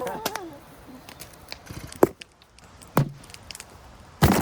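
Three sharp knocks about a second apart, the last the loudest and longest.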